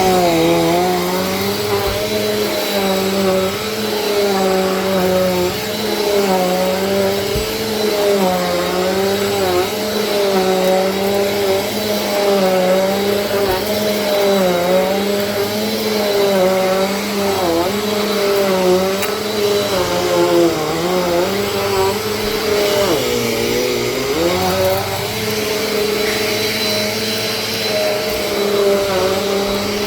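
Vacuum cleaner running steadily, its motor pitch dipping briefly every second or two, with a deeper dip about 23 seconds in.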